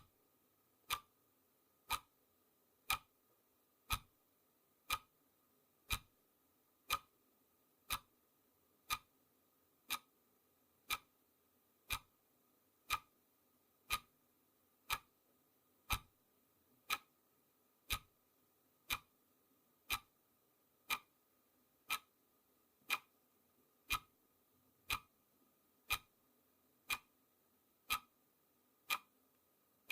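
Clock-style ticking sound effect of a countdown timer: one sharp, even tick every second.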